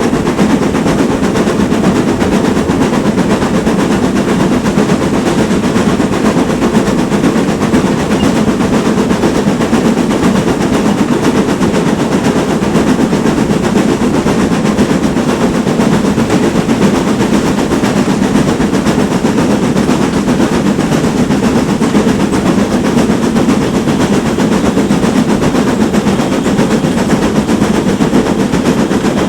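GWR Manor class two-cylinder 4-6-0 steam locomotive working hard, its exhaust beating in a rapid, unbroken run, loud and steady throughout.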